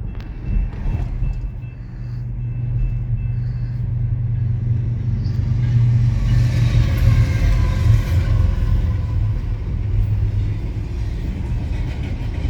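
BNSF diesel freight train passing, a low, steady locomotive rumble that swells to its loudest a few seconds in and then eases slightly.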